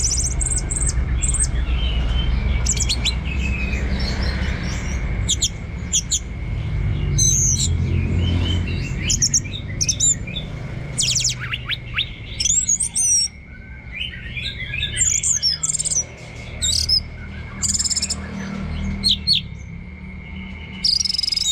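Orange-headed thrush singing a long run of short whistled phrases and chirps, many of them quick up-and-down sweeps, over a steady low rumble.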